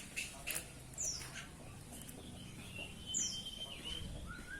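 Domestic canary calling with a few short, high, downward-sliding notes and a thin held whistle, with a couple of faint clicks near the start.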